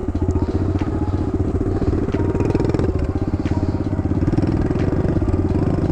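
Kawasaki KLX110 small single-cylinder four-stroke dirt bike engine running steadily at low revs close by, with a slight rise in revs about halfway through.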